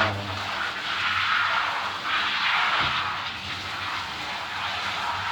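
Running water spraying steadily, as from a shower head or hose rinsing a dog during its bath.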